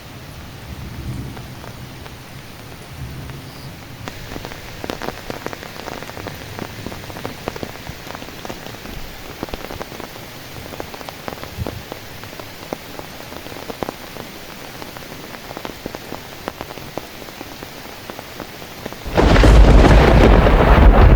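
Steady rain falling, with many small drop hits pattering through it. About nineteen seconds in, a much louder, deep burst of thunder breaks in suddenly and keeps going.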